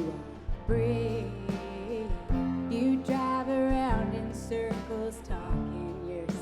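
A live band playing a country-tinged indie rock song, with guitars and drums under sustained melody lines that bend in pitch.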